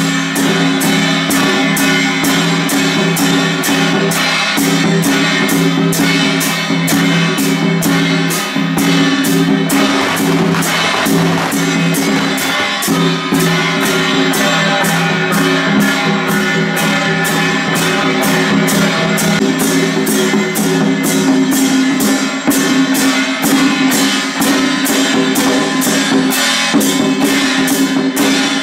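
Madou drum played in a steady, even beat, about two to three strokes a second, over loud backing music.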